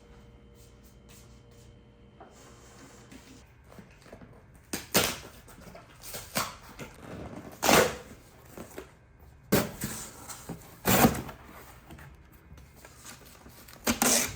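Knocks and scrapes of flat-pack desk parts being handled and set down, about six separate clatters after a few seconds of quiet room tone.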